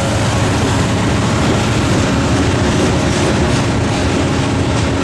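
Diesel freight train passing over a level crossing: the rear locomotives of the Norfolk Southern consist run by with a low, steady engine hum, and the freight cars behind them follow, rolling steadily over the crossing.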